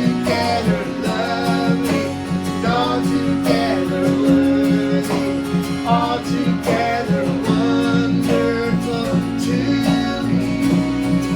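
Worship song: an acoustic guitar strumming a steady rhythm under a voice singing the melody.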